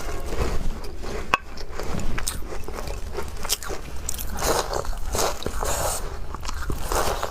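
Biting and chewing crumbly walnut shortbread cookies: irregular small crunches and crackles, with one sharp click about a second and a half in.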